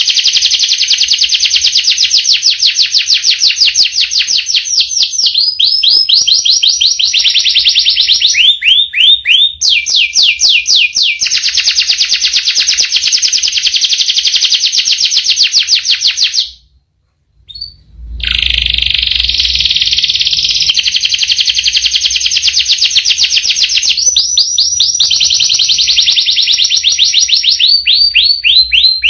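Domestic canary singing long rolls: fast runs of rapidly repeated high notes, each roll changing to a new pattern every few seconds. The song breaks off for about a second and a half just past the middle, then resumes.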